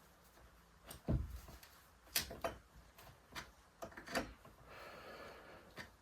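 Duckbill pliers clicking and knocking against a chainsaw's sheet-metal muffler as its pinched exhaust louvers are pried open, in irregular clicks with a heavier thump about a second in and a short scrape near the end.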